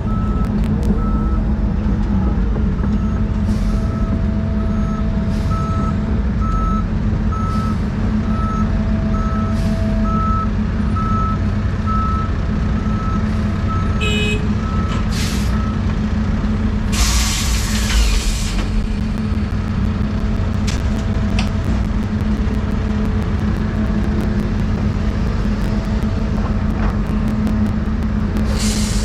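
Diesel engine of a Doosan 350 excavator running steadily, with a truck's reversing alarm beeping regularly for about the first half. Past the middle comes a loud air-brake hiss lasting about a second and a half, and another near the end.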